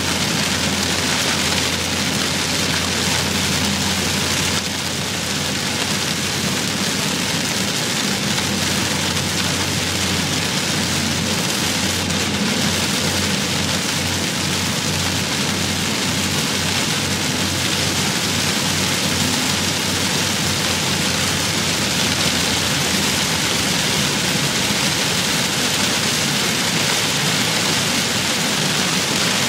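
Heavy rain on a car driving along a highway: a steady, dense hiss of rain over a low, constant hum of the engine and tyres.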